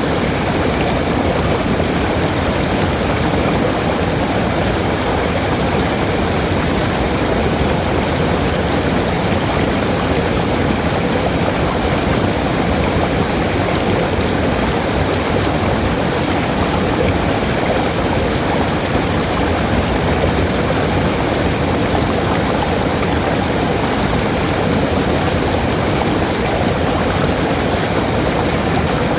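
Waterfall, a steady rushing of falling water, heaviest in the low and middle range.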